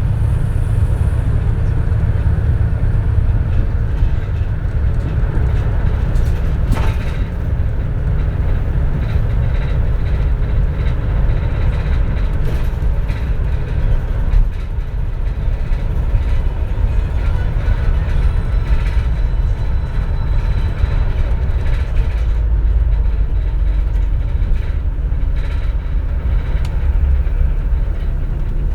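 Interior sound of a 2004 CNG city bus running: a steady low engine and road rumble heard inside the passenger cabin, with a faint whine and a couple of brief knocks.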